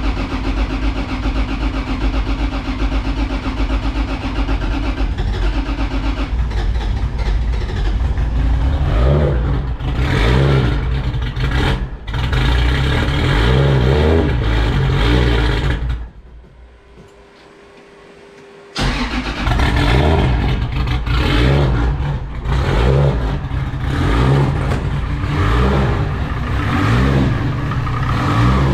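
2JZ inline-six engine on a cold start after a bottom-end refresh, running with a steady note, then revved up and down. About two-thirds of the way through it drops away for a few seconds, then comes back suddenly and keeps revving.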